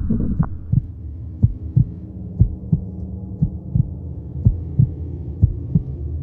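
Heartbeat sound effect: paired low thumps, lub-dub, about once a second over a steady low drone.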